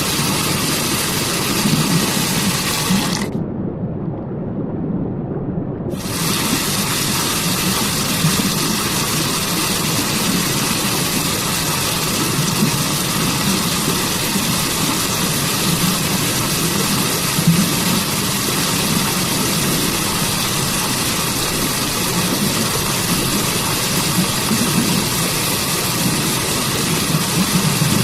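Waterfall and stream water rushing in a steady, unbroken wash with a low rumble beneath it. A few seconds in, the hiss drops away for about three seconds, leaving only a muffled rumble, then returns.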